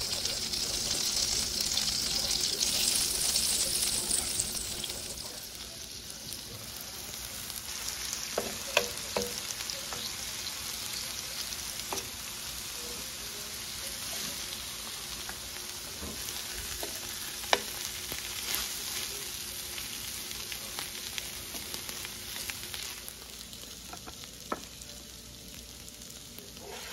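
Chicken, onions and red peppers sizzling on a cast-iron griddle pan, louder for the first few seconds, with a few sharp clicks and scrapes of a wooden spatula against the pan.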